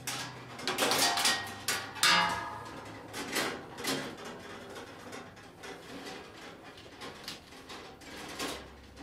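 Long plastic-insulated wires being pulled apart and sorted inside a sheet-metal fluorescent light fixture: rustling and scraping with scattered light clicks and taps against the housing, busiest in the first couple of seconds.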